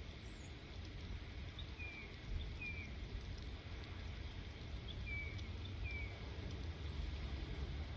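Steady rain hiss over a low rumble, with a bird giving short falling chirps, two pairs about three seconds apart.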